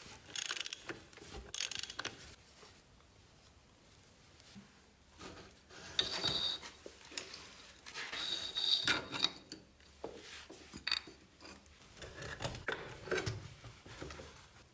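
Hand work on metal motorcycle parts: irregular clinks, knocks and scraping, with short high squeaks about six seconds in and again around eight to nine seconds.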